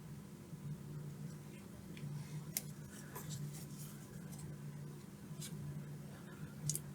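A few faint, scattered clicks and taps from a circuit board being handled on a workbench, over a low steady hum.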